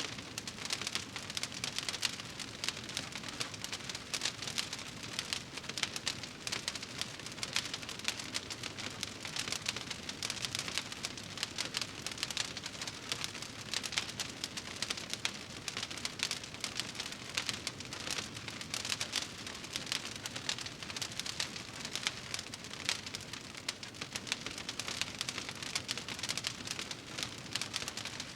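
Wood fire burning in a fireplace, crackling steadily with a dense stream of small pops.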